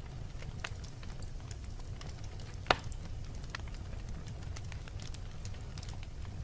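Wood fire burning in a fireplace: a low steady rumble with scattered crackles, and one sharp loud pop from the wood a little under three seconds in.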